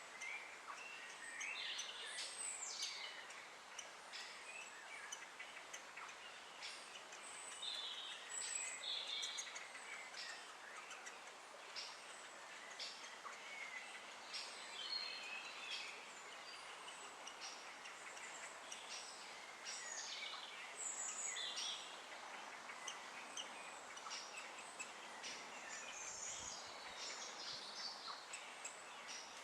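Wild birds calling and singing over a steady background hiss, with many short, sharp call notes scattered throughout and a few longer warbling phrases.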